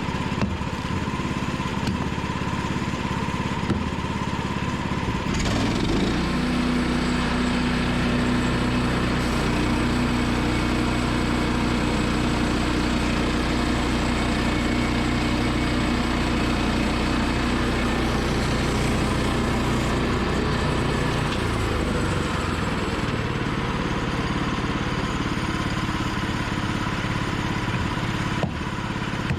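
Small gasoline engine of a Woodland Mills portable bandsaw sawmill running steadily. From about six seconds in until about twenty-one seconds in its note turns deeper and fuller, then goes back to the lighter sound.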